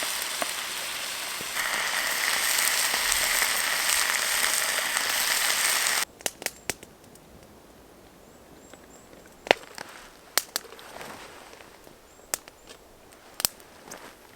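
Bacon sizzling and spitting in a pan, a loud steady hiss that stops abruptly about six seconds in. After that, scattered sharp clicks and taps over a quiet background.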